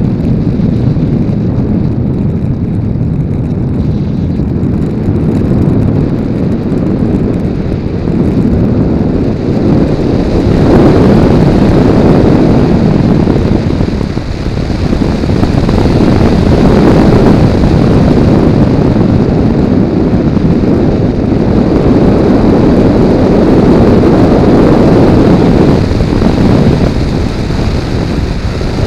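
Airflow buffeting the microphone of a camera mounted on an RC model plane in flight: a loud, deep rushing that swells and eases every few seconds, with no clear motor tone standing out.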